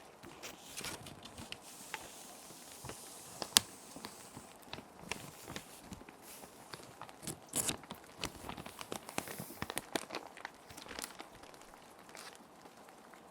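Plastic sheet protectors crinkling and rustling as paper sheets are slid in and handled, with irregular sharp crackles, a few louder ones around the middle. A steady soft hiss of background rain sound sits underneath.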